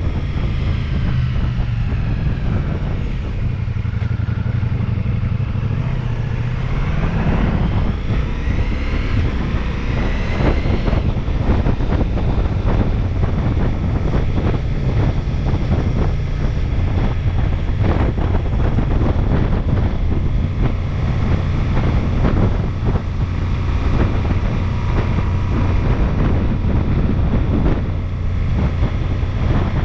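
Ducati Multistrada V4S's V4 engine running under way. The revs rise for a few seconds about seven seconds in as the bike accelerates, then settle back to a steady drone.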